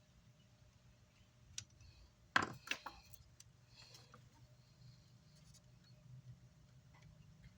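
Handling noise on an electronics repair bench: a sharp click, then a short clatter of clicks about two and a half seconds in, and a few softer clicks later, over a faint steady low hum.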